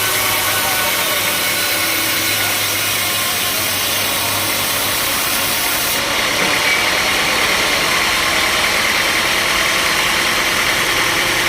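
Sawmill machinery running steadily: a constant engine-like drone with a noisy hiss over it. The sound changes about six seconds in, the top end dropping and a buzzy band coming up in the middle.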